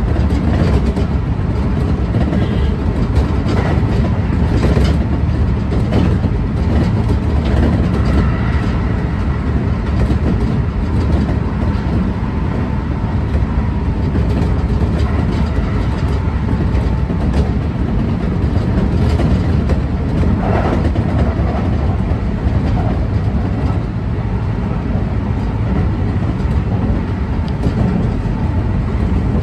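Kintetsu electric commuter train running, heard from behind the driver's cab: a steady rumble of steel wheels on the rails, with a few sharp clacks over rail joints.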